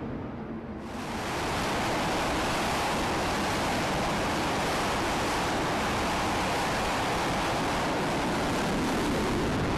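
Jet engine on a carrier flight deck running at high power: a steady, loud roar that cuts in suddenly about a second in and holds level.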